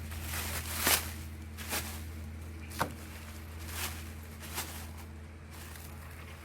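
A handful of short, sharp knocks or clicks, about one a second, over a steady low hum.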